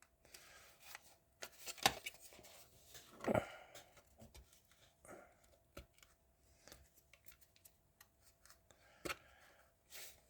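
Light clicks, scrapes and a few sharper snaps from a glued plastic model car being handled and pried apart. The clicks come irregularly, the loudest about two seconds in and again near the end.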